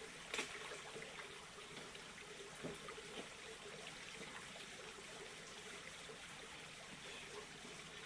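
Small mountain waterfall and stream running as a faint, steady rush of water, with a light knock shortly after the start.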